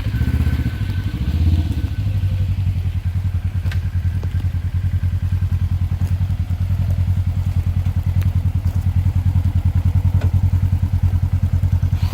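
Polaris RZR side-by-side's engine idling with a steady, even pulse, a little fuller in the first couple of seconds, with a few faint ticks.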